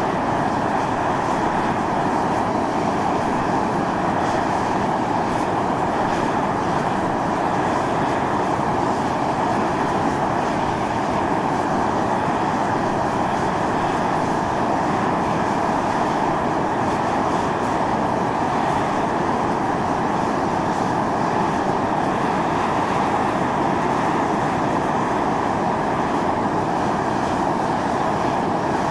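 Volcanic fumarole venting steam in a steady, unbroken rush that neither rises nor falls.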